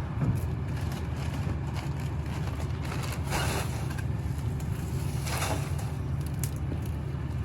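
Garbage truck's engine running steadily with a low rumble, with two brief rushing swells about three and five and a half seconds in.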